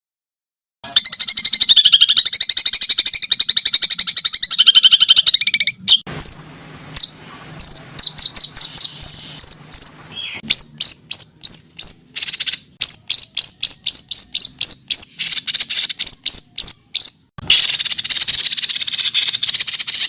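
Recorded songbird calls from a bird-training playback: a long, rapid, buzzy trill, then a run of sharp, high chirps about three a second that come faster, then the buzzy trill again near the end.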